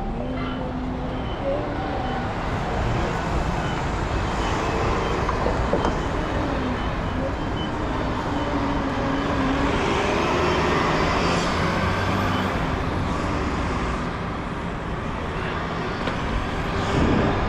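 City street traffic: cars and larger vehicles passing with engine and tyre noise over a steady low rumble, with one vehicle passing close and louder near the end.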